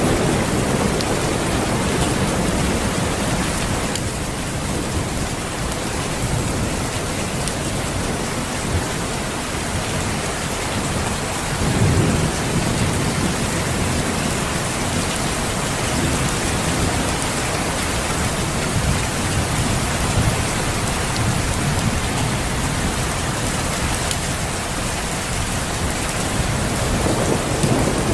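Steady rain falling, with low rolling rumbles of thunder that swell at the start, about twelve seconds in, and again near the end.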